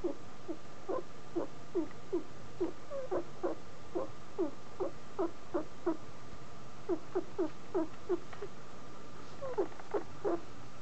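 Pet guinea pig giving a long run of short squeaky calls, each sliding down in pitch, about two or three a second with brief pauses: an unusual repeated vocalisation that its owner finds worrying.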